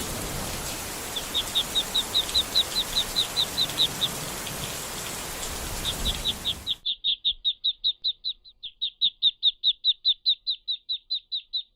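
A bird chirping in quick runs of short, high, evenly spaced notes, about five a second, over a steady hiss that cuts off abruptly about seven seconds in.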